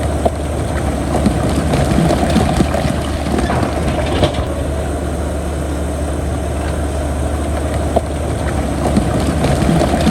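Heavy diesel earthmoving machinery running steadily under load, with scattered metallic clanks and knocks.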